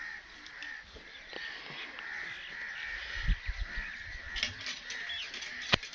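Birds calling steadily in the background, with a few sharp clicks, the loudest near the end.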